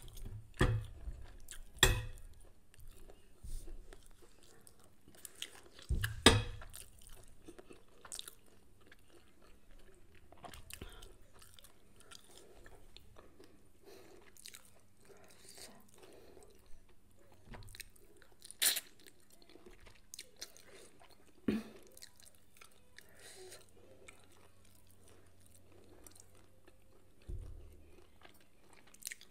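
Close-up eating sounds: a person chewing fried mackerel and rice, with a handful of sharp clicks and crunches, the loudest about two and six seconds in.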